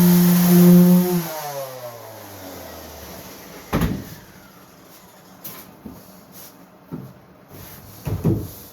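Cordless random orbit sander (Milwaukee M18) running steadily, then switched off, its pitch falling as the pad spins down over about two seconds. Several knocks of wood being handled and set down follow, the loudest just before the four-second mark and near the end.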